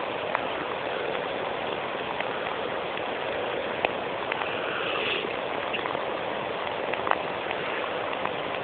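Bonfire burning on melting ice: a steady hiss with scattered sharp crackles.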